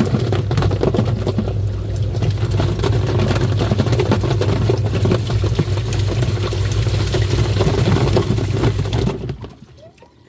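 Twin-tub washing machine running its wash cycle: a steady low motor hum as the agitator churns foamy water and toy animals, with many small knocks and splashes. It stops about nine seconds in.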